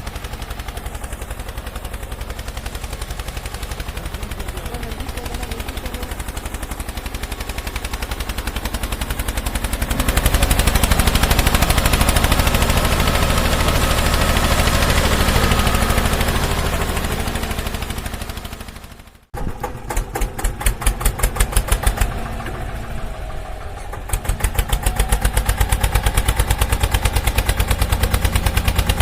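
Remote-control toy tractor running, with a fast, steady chugging engine sound. It grows louder about ten seconds in, dies away to a moment of silence a little before twenty seconds in, then starts up again and settles back into a steady run.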